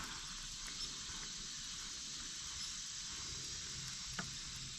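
Steady high-pitched hiss of outdoor background, with one faint click about four seconds in.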